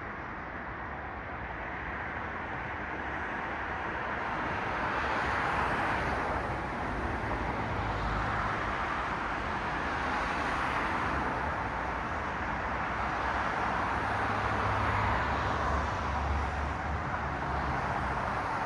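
Road traffic: cars passing one after another, their tyre noise swelling and fading in waves over a low engine rumble that grows stronger in places.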